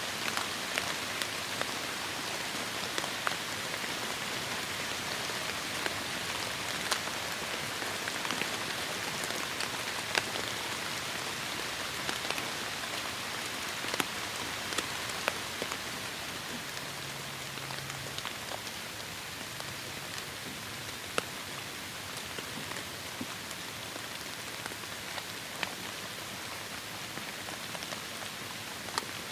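Heavy rain falling steadily, a dense hiss with many sharp individual drop impacts ticking through it.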